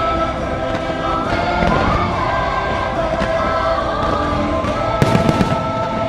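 Fireworks show soundtrack with a choir holding long notes over orchestral music, and fireworks going off: a cluster of bangs and crackles about five seconds in.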